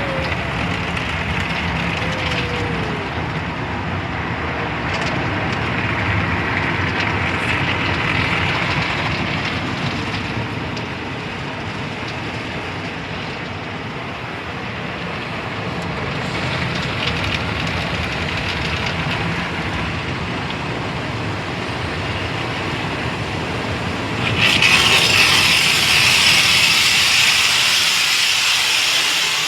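Automatic drive-through car wash machinery heard from inside the car: a steady rush of water spray and moving equipment. About 24 seconds in, a much louder, sharper hiss of spray or air starts suddenly and holds.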